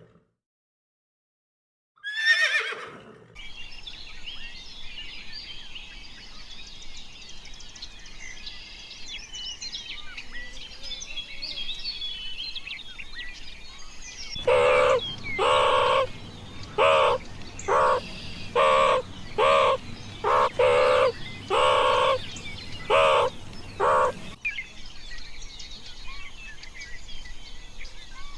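A horse or pony whinnies once near the start, its call falling in pitch. Wild birds then chirp and sing in the background. In the middle comes a run of about a dozen short, loud animal calls, roughly one a second, before the birds are left alone again.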